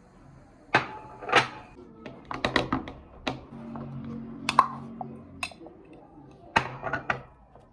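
A series of sharp clicks and knocks, about a dozen, with a brief steady hum partway through.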